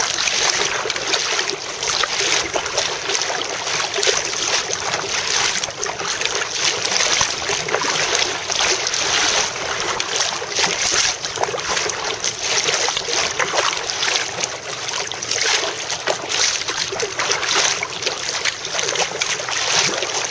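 Steady rush and splash of water around a kayak being paddled, with many small irregular splashes.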